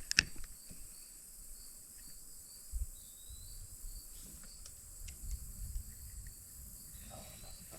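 Insects calling in a steady high-pitched chorus over faint creekside ambience. A sharp click comes just after the start and a dull low knock about three seconds in.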